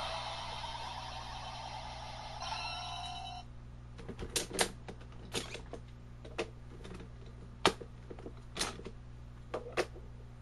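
Kamen Rider Double Driver toy's electronic transformation sound playing, cutting off abruptly about three and a half seconds in. It is followed by a string of sharp plastic clicks and taps as the Gaia Memory toys are pulled out and handled.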